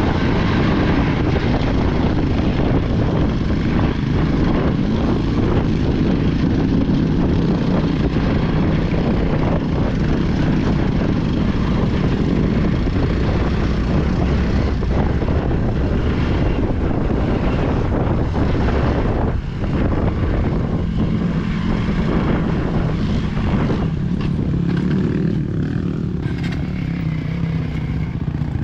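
Vehicle engine running steadily under way with a continuous drone. Its level dips briefly about twenty seconds in, then it settles into a lower, steadier note.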